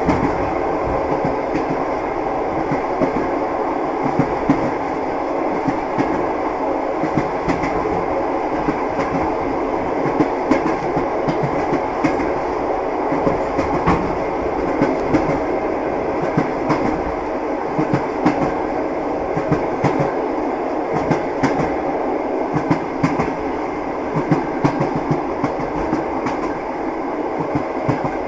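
A moving train's steady rumble, with the wheels knocking on the rails in frequent short clicks.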